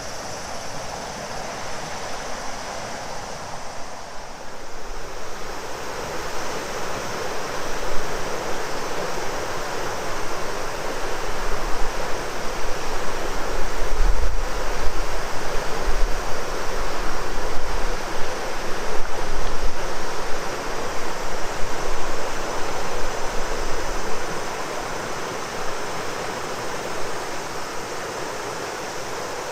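River water rushing steadily over its bed, with cicadas droning steadily in the background. Wind rumbles on the microphone, swelling through the middle.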